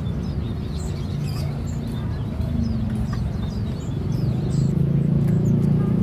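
Small cage birds chirping faintly and repeatedly over a steady low rumble that swells a little in the second half.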